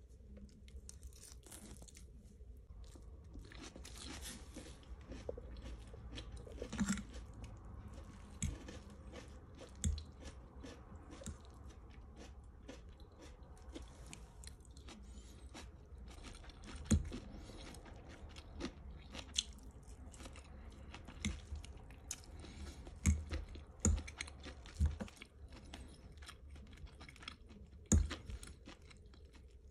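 A person chewing mouthfuls of pansit bihon, stir-fried rice noodles with cabbage, close to the microphone, with sharp clicks and crunches at irregular moments over a low steady hum.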